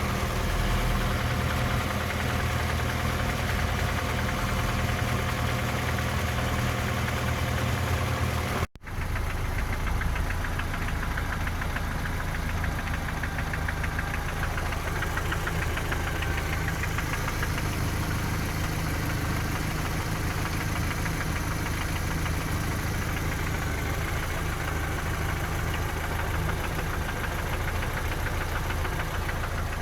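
Toyota 3S-FE four-cylinder engine running steadily with a rapid knock, which the owner places around cylinders 3 and 4 near the camshafts or lower and takes for a known trait of the 3S engine family, with valve clearances, cam gear and camshaft journals already checked. The sound cuts out for a moment about nine seconds in.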